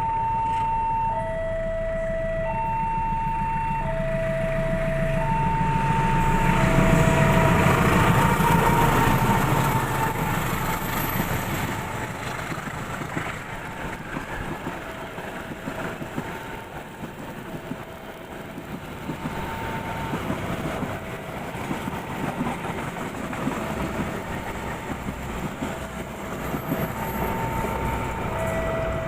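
Railway level crossing's electronic warning alarm sounding a two-note high-low tone over and over, as a train passes. The train's rumble builds to its loudest about 7 to 10 seconds in, then runs on more quietly under the alarm.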